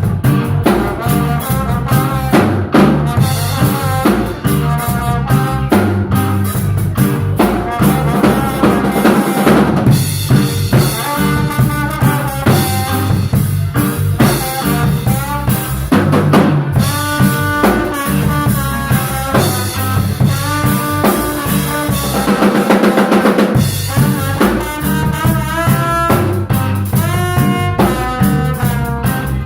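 Live instrumental band playing, with a drum kit's snare, rimshots and bass drum driving a steady beat under pitched melodic lines.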